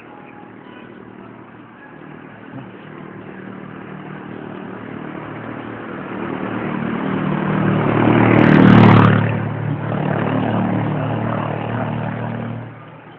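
A motor vehicle's engine growing louder over several seconds as it comes up and passes close by. It is loudest about nine seconds in, runs on a few seconds more, then drops away suddenly near the end.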